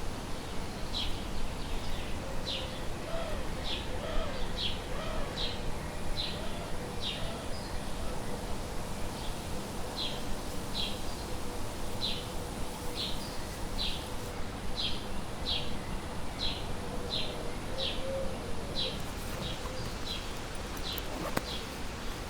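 A bird repeating a short, high chirp, about two a second, with a few fainter lower warbling notes over a steady background hiss.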